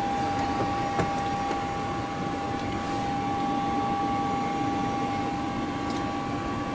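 Steady hum and whine of an airliner flight deck with the aircraft's electrical power on and its hydraulic system pressurized. A fixed high whine sits over a broad hiss, with a couple of faint clicks about a second in and near the end.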